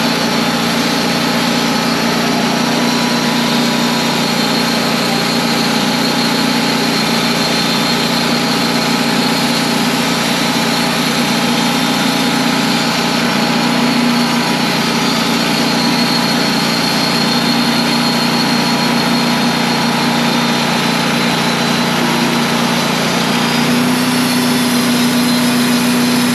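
Wood-Mizer portable band sawmill running steadily while milling a log into a beam. Its engine note steps slightly higher near the end.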